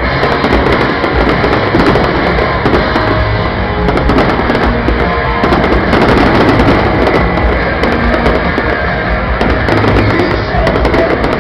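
Fireworks going off in rapid succession, a dense run of bangs and crackles, with music playing underneath.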